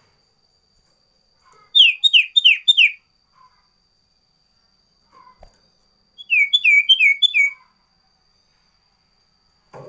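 A sirtu bird calling twice, each time with a quick run of four or five sharp, shrill notes that fall in pitch, loud and clear. A faint steady high whine runs underneath throughout.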